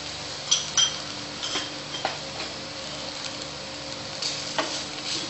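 Sliced onions and ginger-garlic paste sizzling in hot oil in a frying pan, with a utensil scraping and clicking against the pan as they are stirred; the sharpest clicks come about half a second and a second in.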